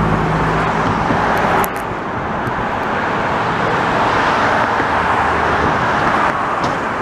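Steady road traffic noise from vehicles passing on a busy highway. A low engine drone underneath stops abruptly about a second and a half in, leaving the even traffic rush.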